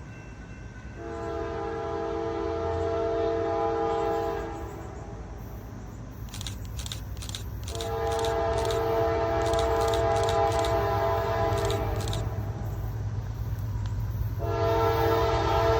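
Diesel locomotive air horn sounding a chord in three blasts: two long ones, the second the longest, then a third starting near the end. A steady low rumble of the approaching train runs underneath.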